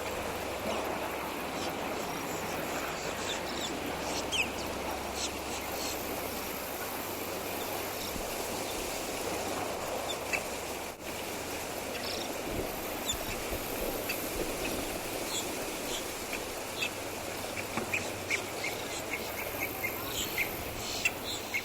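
Outdoor ambience: a steady background hiss with scattered short, high chirps through it.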